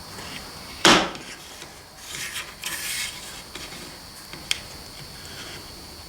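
Hobby chopper (guillotine cutter) blade coming down through a wooden craft stick with one sharp chop about a second in, followed by wood rubbing and scraping as the stick is handled, and a small click.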